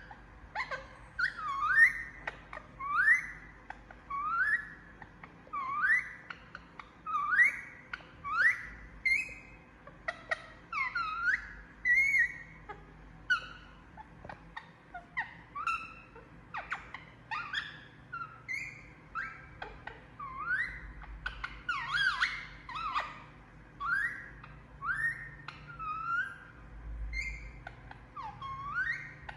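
Indian ringneck parakeet making short rising squeaky chirps over and over, about one every second or so, while asleep.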